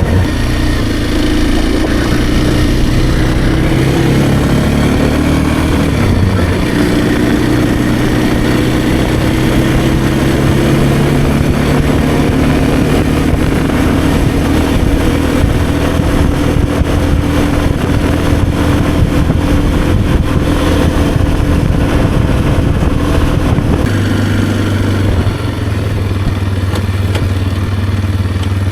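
Kawasaki KLX230R dirt bike's single-cylinder four-stroke engine running under way. Its pitch climbs at first, drops sharply about six seconds in, rises slowly again, and settles lower near the end, with wind noise across the microphone.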